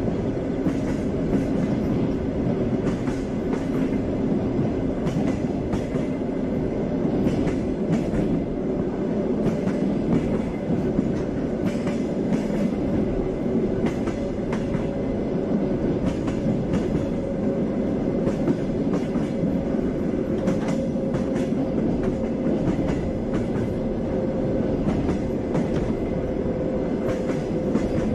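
Passenger train running steadily, heard from aboard a carriage: a continuous rumble with the wheels clacking over rail joints and a faint steady hum above it.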